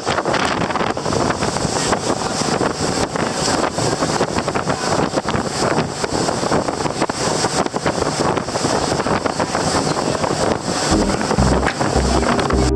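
Wind buffeting the microphone aboard a moving river tour boat, a loud, gusty rush over the boat's running noise. Background music fades in near the end.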